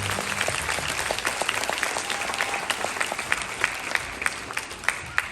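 Audience applauding as the ballet music cuts off. The clapping thins out to a few scattered single claps near the end.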